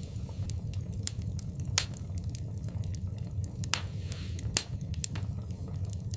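Wood fire burning in a fireplace: a steady low rumble of the flames with irregular crackles and sharp pops, the loudest about two, three and a half and four and a half seconds in, and a brief hiss just before four seconds.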